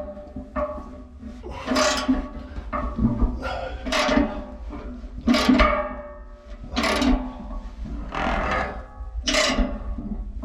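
Background music led by a strummed guitar, with chords struck about every one and a half seconds and left to ring.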